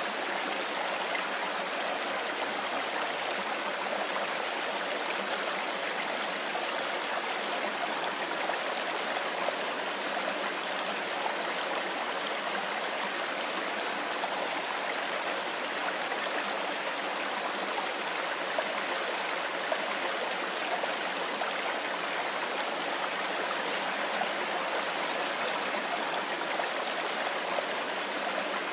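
Mountain forest river flowing, a steady, even rushing of water with no change throughout.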